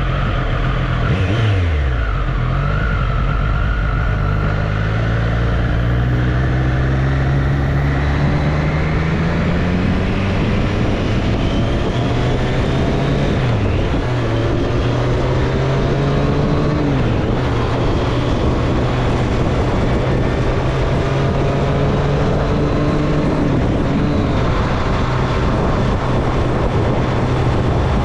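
Triumph Street Triple's three-cylinder engine under way. It pulls up through the revs, drops in pitch at a couple of upshifts midway and then holds a steady cruise, with wind noise rushing over it.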